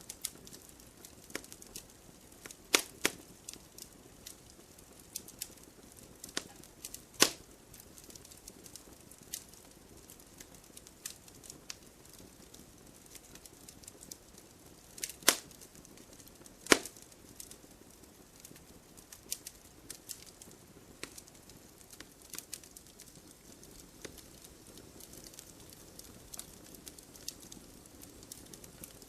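Wood fire in a fireplace crackling, with scattered sharp pops of burning logs over a faint low hiss; a few louder snaps stand out, two close together about three seconds in and two more past the middle.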